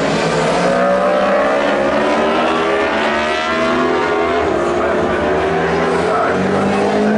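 Racing superbike engines running at high revs, several at once, their pitches rising as they accelerate and overlapping; another bike's engine comes in rising near the end.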